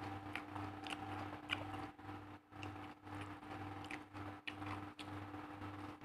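A person chewing raw leafy greens (lalapan of young mango, leunca and papaya leaves) with rice: sharp, crisp crunches come irregularly, several a second. Under them runs a steady low hum that pulses about twice a second.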